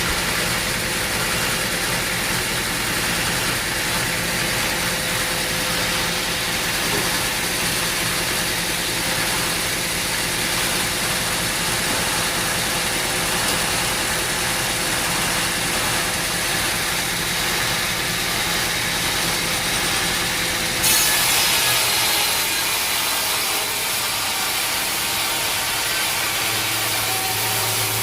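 Sawmill machinery running with a steady engine hum. About three quarters of the way in, the sound switches abruptly to a brighter, hissier noise.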